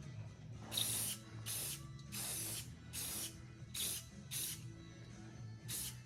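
Spray paint hissing out in short bursts, about seven in six seconds, as a small metal part is coated.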